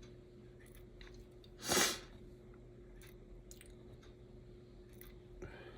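Faint small clicks and taps of tiny parts being handled on a workbench, over a faint steady hum, with one short breathy hiss about two seconds in.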